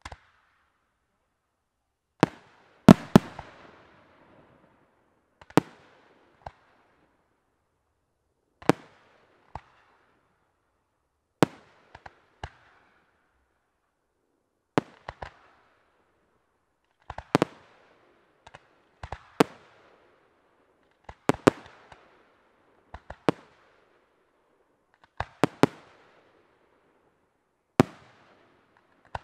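Aerial firework shells bursting with sharp bangs, singly or two or three close together, every two to three seconds, each followed by a short fading echo. The loudest volley comes about three seconds in.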